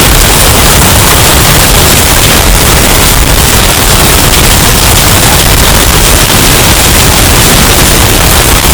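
Hurricane wind sound effect, bass-boosted and distorted to full volume: a steady, harsh wall of noise with no let-up.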